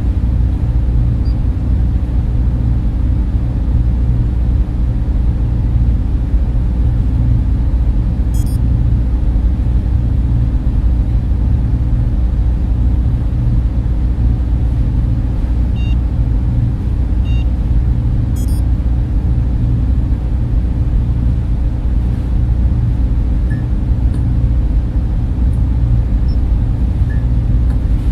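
Server room cooling fans running: a steady, deep whooshing hum with little treble. Two faint high ticks, about a third and two-thirds of the way through.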